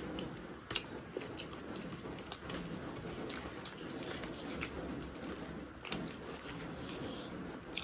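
Close-miked eating sounds of two people eating egg fried rice by hand: chewing and wet mouth smacks, with fingers working the rice on steel plates. Many short, irregular clicks run through, a few sharper ones standing out.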